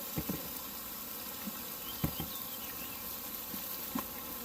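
Outdoor campsite ambience: a steady hiss with a few soft knocks and faint high chirps around the middle.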